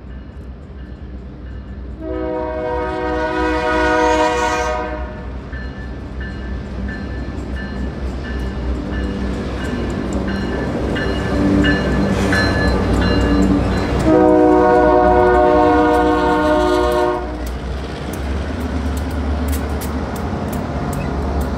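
Lycoming Valley Railroad freight train's diesel locomotives passing close by at a grade crossing, sounding the multi-note air horn in two long blasts about two seconds in and about fourteen seconds in, over a steady engine rumble. Near the end the boxcars roll past with wheels clicking over the rail joints.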